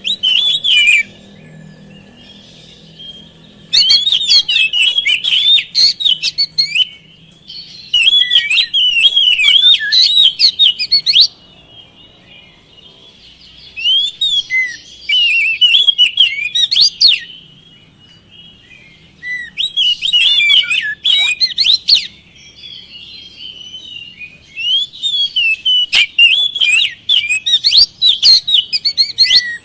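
Oriental magpie-robin (kacer) singing in full voice: loud bursts of rapid, varied whistled phrases, each a few seconds long, with short pauses between about six bursts.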